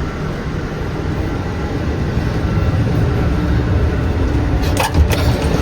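Steady low rumble of a moving Amtrak passenger train, heard from inside the car, with a couple of sharp clicks about five seconds in.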